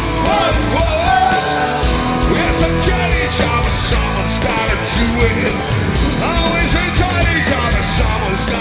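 Rock band playing live at full volume, with a singer's voice over drums and band.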